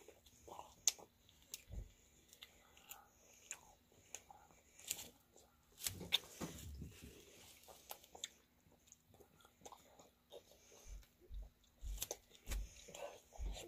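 Two children chewing and biting juicy rambutan fruit: faint, irregular soft clicks and mouth noises.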